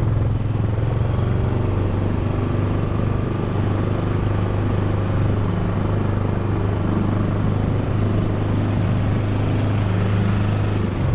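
Small fishing boat's motor running steadily under way, a loud constant low drone with water and wind noise over it.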